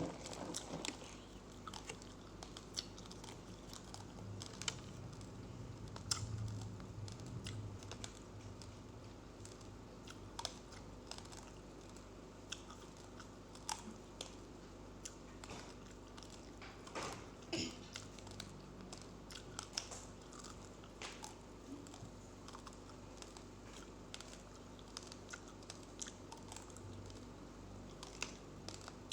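Chewing and crunching of raw, uncooked rice grains, heard as irregular small crisp crunches with a louder cluster about 17 seconds in.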